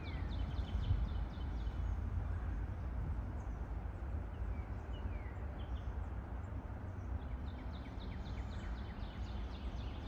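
Birds chirping and calling in woodland, short high chirps with a few quick downward-sliding calls, over a steady low rumble.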